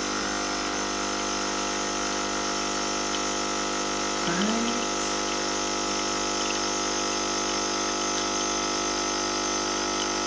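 Espresso machine's pump running steadily while it brews a double shot, a constant hum with coffee flowing into the cups. A brief rising tone sounds about four seconds in.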